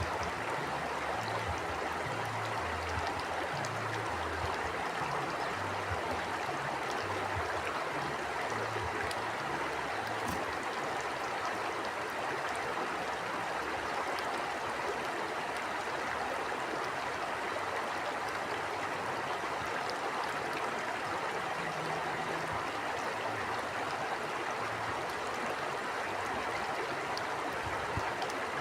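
Stream flowing: a steady, even rush of running water, with an uneven low rumble underneath.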